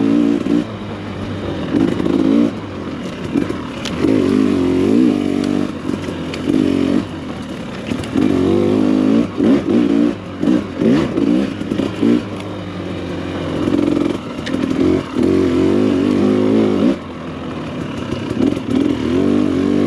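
Two-stroke Husqvarna enduro dirt bike engine revving up and down over and over with the throttle as it is ridden along a trail. Scattered clicks and knocks from the bike and terrain come through, most of them in the middle.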